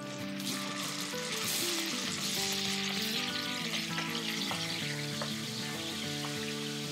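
Pork belly and doubanjiang (chili bean paste) frying in hot oil in a wok. The sizzle grows louder about half a second in and stays strong, with a few light scrapes of a wooden spatula stirring.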